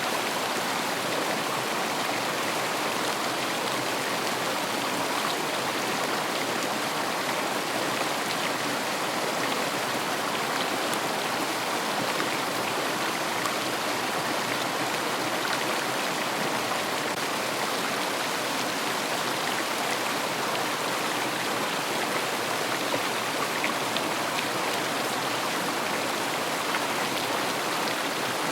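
River water rushing and babbling in a steady, continuous flow, with fine splashing detail.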